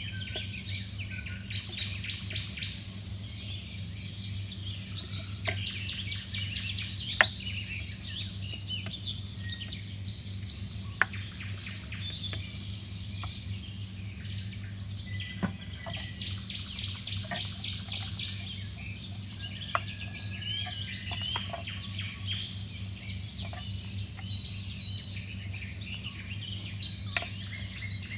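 Small birds chirping and singing continuously, over a steady low hum, with a few sharp clicks, the loudest about seven seconds in.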